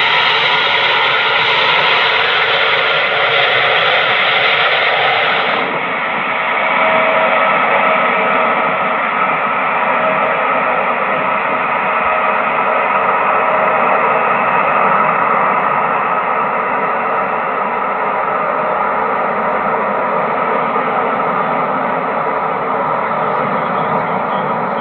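Boeing 777F's jet engines at takeoff power: a loud, steady roar with a few faint steady tones in it, heard as harsh and distorted.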